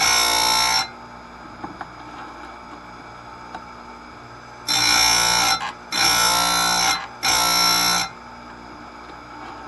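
Bench chain grinder's CBN wheel grinding chainsaw chain teeth: four high-pitched grinding screeches, each under a second, one at the start and three close together about five seconds in, with the grinder motor humming between them.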